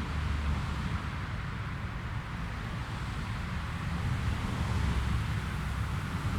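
Jet airliner engines, a steady rumble and hiss, with wind buffeting the microphone.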